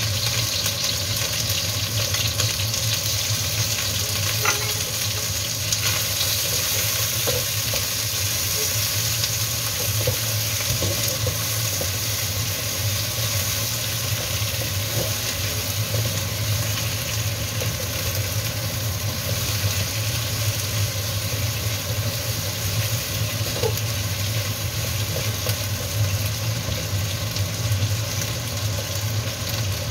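Chicken wings sizzling steadily in hot oil in a wok, with a spatula now and then stirring and scraping them. A steady low hum runs underneath.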